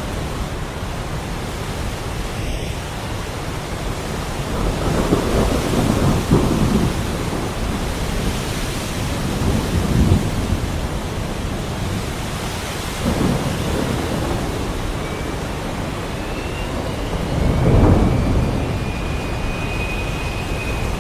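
Heavy rain falling steadily, with thunder rumbling low several times, the strongest roll near the end.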